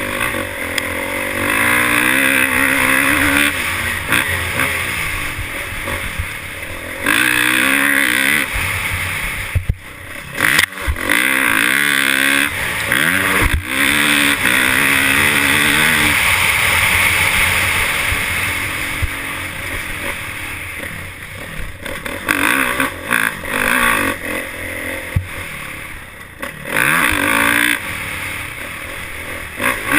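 Motocross dirt bike engines revving up and easing off again and again as they race, the pitch rising and falling with each throttle change.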